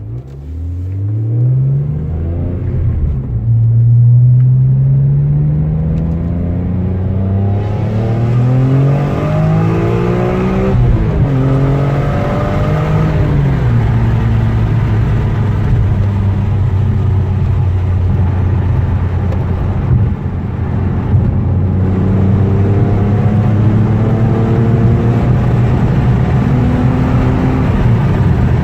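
BMW E46 M3's S54 straight-six through a Topgear aftermarket exhaust backbox, pulling up through the revs in stepped rises for the first dozen seconds, then holding a steady note at constant revs, and climbing again near the end.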